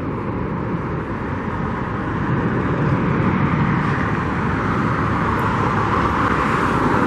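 Road traffic noise: vehicles going by on a busy road, a steady rushing that grows a little louder partway through.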